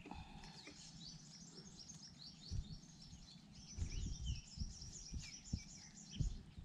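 Small bird chirping in two quick runs of short high notes, over several dull low thumps.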